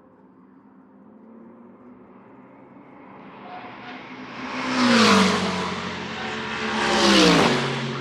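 Two GT3 race cars passing one after the other, about two seconds apart. Each engine note swells to a peak and drops in pitch as the car goes by, then fades.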